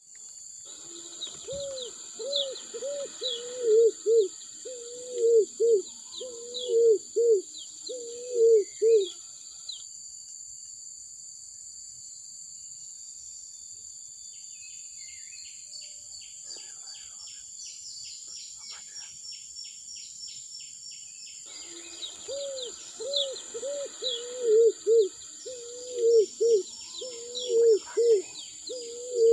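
A bird singing a fast series of low, arched whistled notes in a phrase of about eight seconds, given twice with a long pause between, amid smaller birds' chirps and a steady high-pitched drone.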